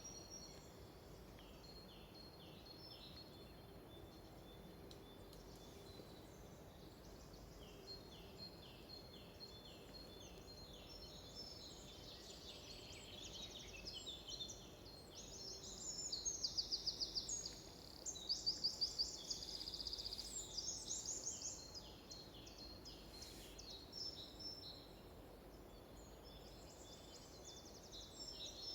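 Several wild birds singing and calling in a forest, with overlapping short whistles and repeated down-slurred notes. Past the middle, a louder bird sings a rapid trill twice.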